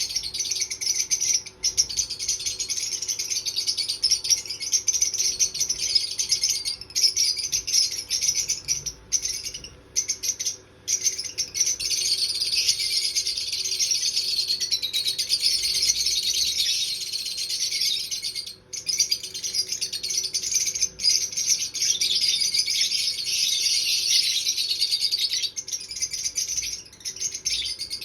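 Fischer's lovebird chattering: a rapid, continuous high-pitched twittering, broken by a few brief pauses.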